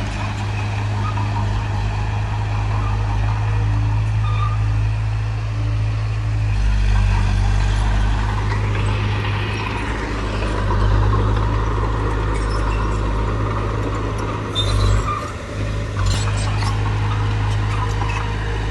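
Bulldozer's diesel engine running steadily under work, with a short drop in engine note about three-quarters of the way through, followed by a few metallic knocks.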